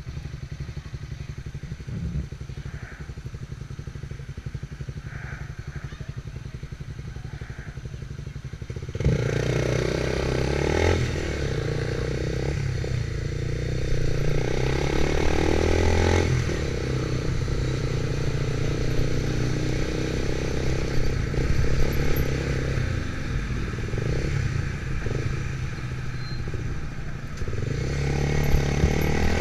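Motorcycle engine running with a steady low beat. About nine seconds in it gets suddenly louder, and its pitch then rises and falls with the throttle as the bike is ridden.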